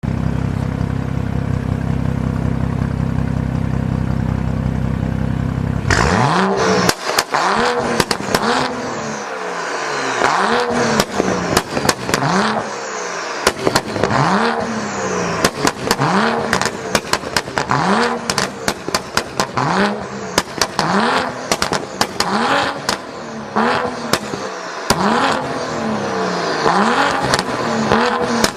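BMW 435i turbocharged straight-six through an Armytrix valved exhaust, idling steadily for about six seconds and then blipped repeatedly, about once a second. Each rev rises and falls, and sharp pops and crackles follow on the overrun.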